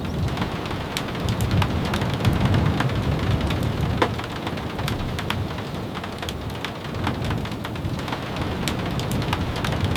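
Steady rain with a low rumble that swells a few seconds in, dotted with many sharp, irregular clicks and pops.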